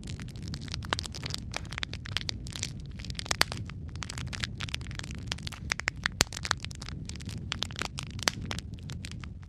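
Wood fire crackling in a fireplace: a steady low rumble of flame under many quick crackles and pops, with one louder pop about three and a half seconds in.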